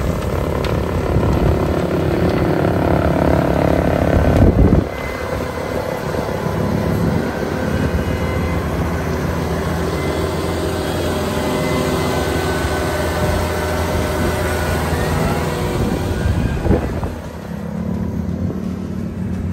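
Tractor engine running steadily, its level dropping suddenly about five seconds in, with a noisy haze over the engine tone.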